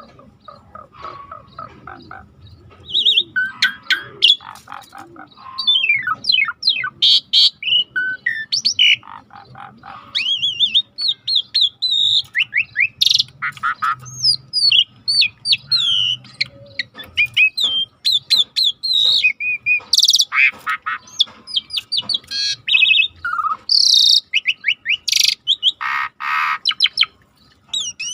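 Starling masteran song: a dense, varied string of chirps, rising and falling whistles and short rattling calls, one after another with hardly a pause.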